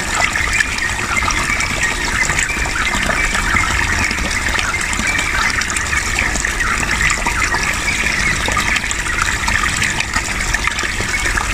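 Water flowing steadily, a continuous splashing and gurgling like a stream or a small water feature.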